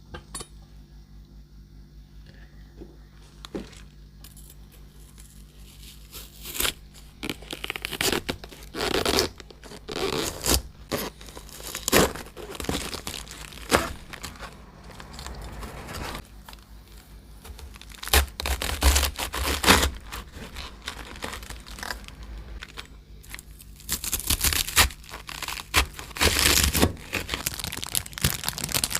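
Crisp lettuce leaves being torn apart by hand, with irregular tearing and rustling that starts about six seconds in, over a faint steady low hum.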